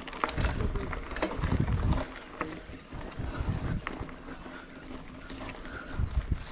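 Mountain bike ridden along a dirt trail, with wind rumbling on the action camera's microphone in gusts and sharp clicks and rattles from the bike over rough ground.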